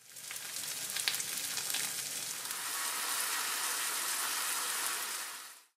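Pieces of thick fried tofu (atsuage) and white leek sizzling in a frying pan in oil and sauce. It is a steady hiss with a few sharp crackling pops in the first two seconds, fading in at the start and fading out just before the end.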